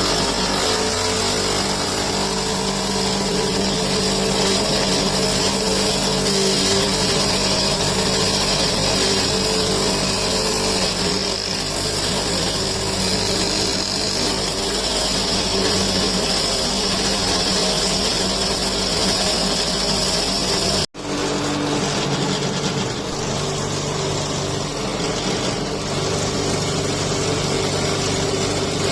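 Friction stir welding machine running steadily: an electric motor hum with a high steady whine. The sound breaks off for an instant about 21 seconds in, then continues much the same.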